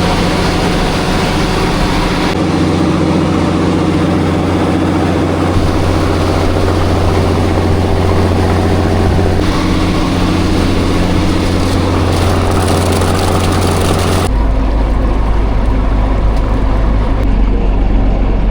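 Motorboat engine running steadily at speed. Its tone changes abruptly a few times, about two, nine and fourteen seconds in.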